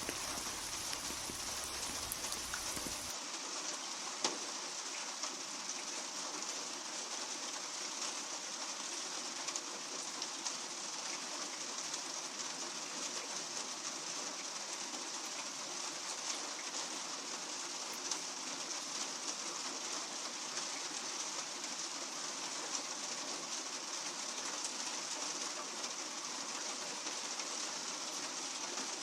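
Steady rain falling, an even hiss with scattered ticks of individual drops. A low rumble underneath drops out about three seconds in.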